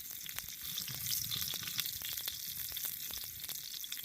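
Bacon frying in a pan over a campfire: a steady sizzle studded with many small pops and crackles.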